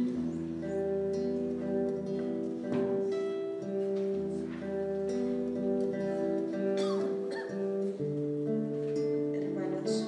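Instrumental music led by acoustic guitar, plucked and strummed over a low held bass note.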